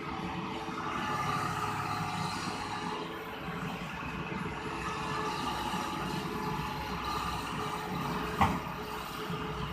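Heavy diesel engine running steadily, with one sharp knock or clank a little over eight seconds in.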